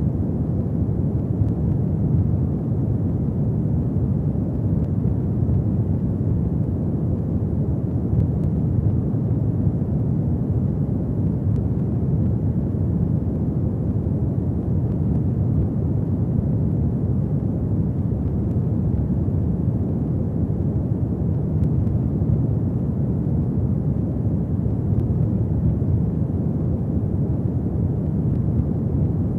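Fireplace fire burning with a steady low rumble and occasional faint crackles.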